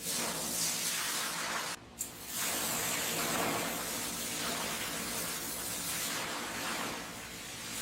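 A steady hissing spray that cuts out for about half a second around two seconds in, then starts again.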